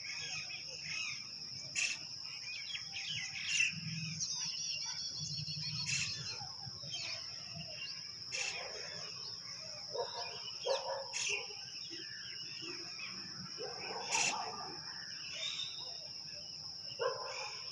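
Birds chirping and calling in short, repeated bursts over a steady high-pitched whine, with a few sharp clicks.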